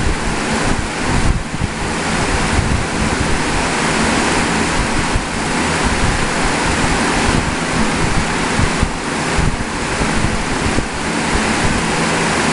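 Wind buffeting the microphone: a steady loud rush with an uneven low rumble, with no break.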